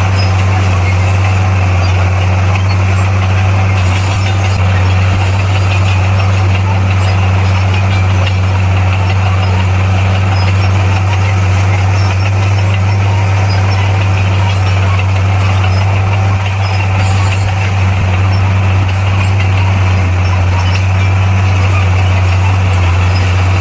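Bulldozer's diesel engine running at a steady, even speed, a loud low hum with a rough rattle over it.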